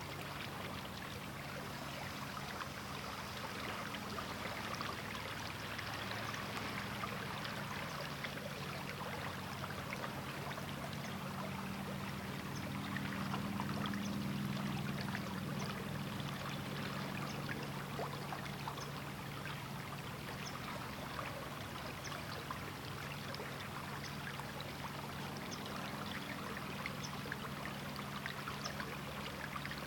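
River water flowing over rocks: a steady rush full of small splashes and trickles, with a low rumble underneath that swells a little about halfway through.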